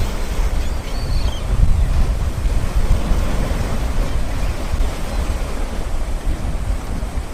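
Water fountain jets spraying and splashing down in a steady rushing hiss, with wind buffeting the microphone as an uneven low rumble.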